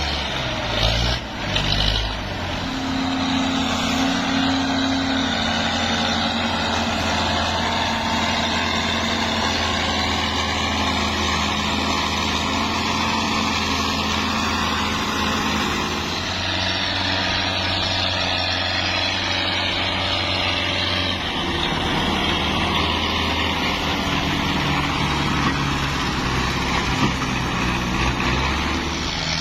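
Ford tractor engine running steadily, with a few brief knocks about a second in and its engine note shifting about halfway through.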